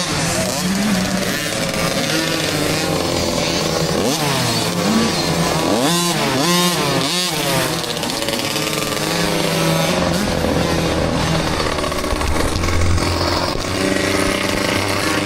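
Several small dirt bike engines racing past, revving up and falling back again and again as the riders shift and throttle, with a run of quick rising revs near the middle and a steadier held note later.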